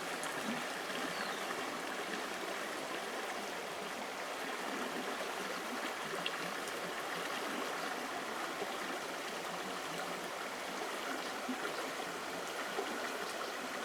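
Stream water running steadily, an even rushing and trickling.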